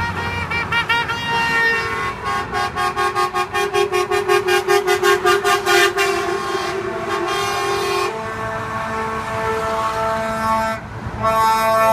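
Truck horns honking: a fast run of short repeated blasts for about the first six seconds, then long held horn tones from several trucks, with a brief gap shortly before the end.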